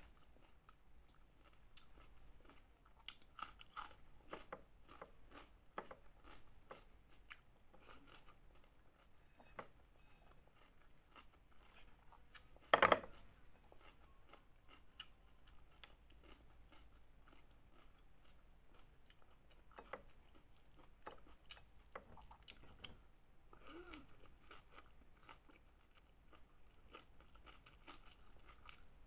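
A person chewing and crunching fried fish and raw vegetables close to a clip-on microphone, with scattered short mouth clicks and crisp snaps. One louder sharp crack comes about 13 seconds in.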